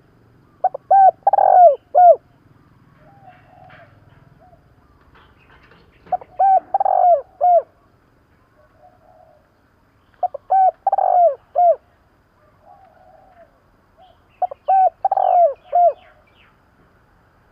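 Spotted dove cooing: four phrases of several short, falling coos each, about four seconds apart. It is a lure call used to draw wild spotted doves to answer.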